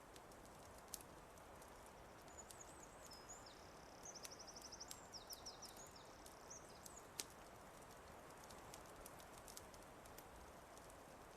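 Quiet wood fire crackling, with scattered sharp pops over a soft steady hiss. A songbird sings one fast trilled phrase from about two to six seconds in.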